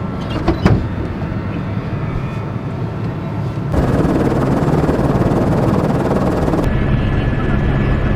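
Helicopter engine and rotor running, heard from inside the cabin as a steady drone with a low hum. It gets abruptly louder about four seconds in.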